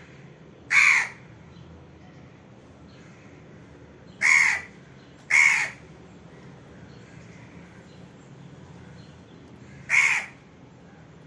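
Indian crow cawing: four single caws of about half a second each, one about a second in, two close together around four to five seconds in, and one near the end.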